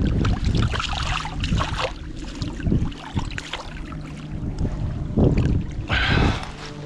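Wind buffeting the microphone in a low rumble, with water sounds and a few brief knocks of handling, the clearest about five seconds in.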